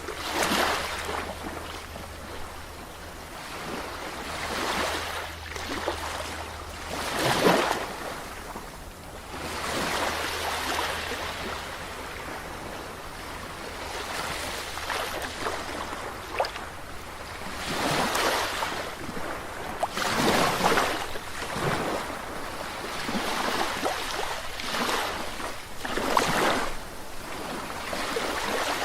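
Ocean waves breaking and washing onto a shore, in swells that rise and fall every few seconds. The biggest crashes come about a third of the way in and again in the second half.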